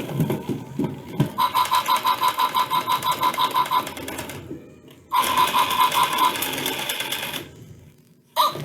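Tekno robot puppy toy giving two runs of rapid, evenly repeated pulses, about seven a second, with a short pause between them.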